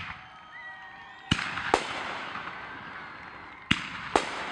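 Aerial fireworks shells bursting overhead: two pairs of sharp bangs, the pairs about two seconds apart, each bang trailing off in a long fading tail.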